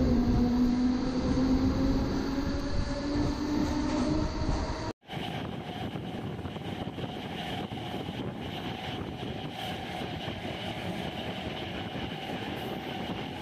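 Passenger train pulling away and gathering speed, a whine rising slowly in pitch over the rumble of the coaches. About five seconds in the sound cuts and becomes the train's steady running noise at speed, heard from the open coach door.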